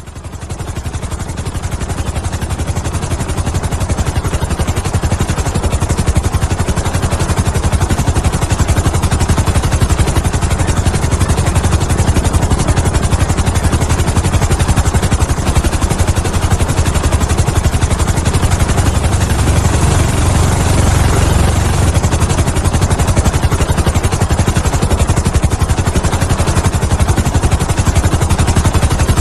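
Helicopter in flight: steady, fast rotor chop over engine noise, fading in over the first second or two.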